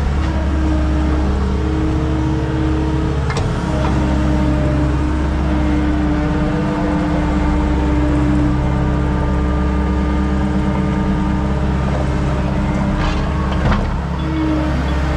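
Skid steer engine running steadily while grading dirt, its pitch shifting slightly with load. A couple of brief knocks come through, one about three seconds in and another near the end.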